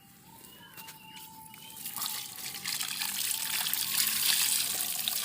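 Clean water running and splashing onto a motorcycle engine to wet it before shampooing. The hiss starts faint and becomes loud and steady about two seconds in.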